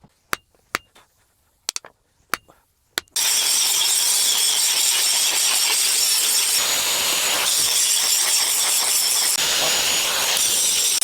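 A few light metallic clinks, then, about three seconds in, a loud, steady, harsh abrasive noise of steel being ground down while the knife is shaped.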